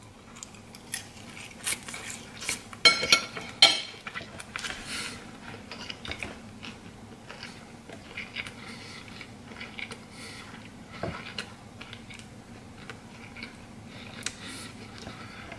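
A person chewing a mouthful of crispy fried fish, with many small wet clicks throughout and a few sharp, louder crunches about three seconds in.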